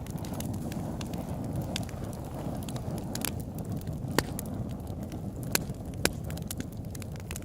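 Campfire crackling, with scattered sharp pops, a few louder ones in the second half, over a steady low rumble.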